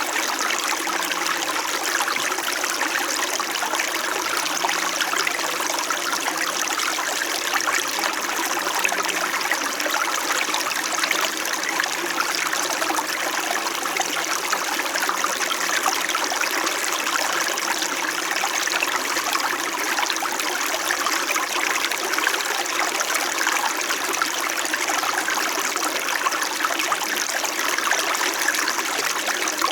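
Small stream flowing steadily over rocks, a continuous gentle burble and trickle of water.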